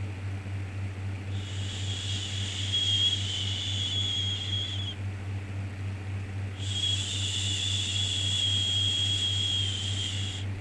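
Shushing 'shhh' sound for soothing a baby, given twice: two long shushes of about four seconds each with a short pause between. A steady low hum runs underneath.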